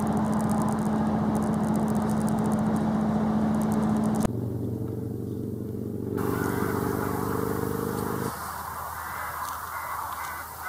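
Running noise inside a moving train carriage: steady rumble from the wheels and track with a steady hum. About four seconds in it cuts abruptly to a steady low hum, then to quieter open-air sound with a few faint bird calls near the end.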